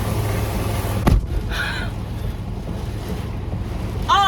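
Heavy rain pouring steadily, then a single sharp thump about a second in, after which the hiss of the rain is much more muffled.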